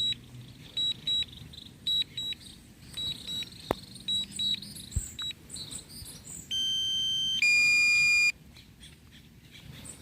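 DJI drone controller and Fly app sounding warning beeps: a series of short high beeps, then two longer held alert tones, the second lower and louder, as the drone's battery runs low.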